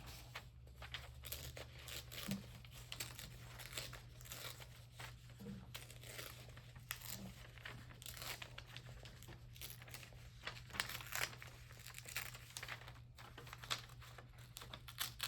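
Paper being handled and torn by hand: irregular crinkling and short tearing sounds of collage cutouts.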